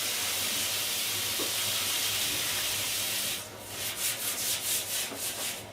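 Non-stick frying pan being washed: a steady hiss of water for about three seconds, then fast rhythmic scrubbing strokes, roughly six a second.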